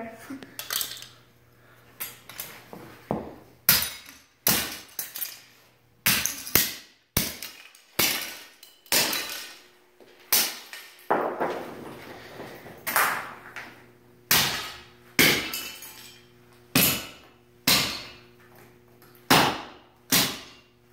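Repeated hammer blows on a 1:18 scale model car: sharp, irregular clanks about one or two a second, with the clink and crack of small parts breaking off.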